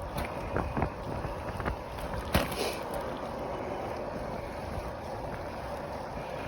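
Steady wind on the microphone and rolling road noise from a bicycle being ridden, with a few light knocks in the first two and a half seconds.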